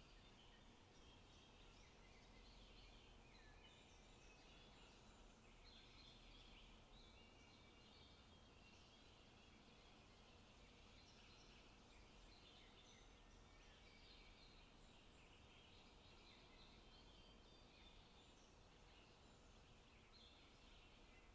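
Faint forest birdsong: many short overlapping bird calls and songs throughout, over a steady low hiss of ambient noise.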